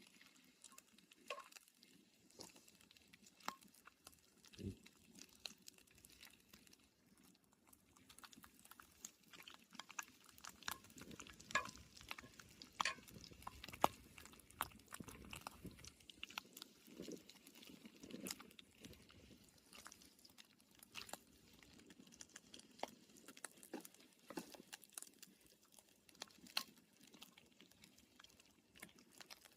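Bacon frying in a pan, with faint, irregular crackling and popping. The pops come thicker and louder in the middle stretch.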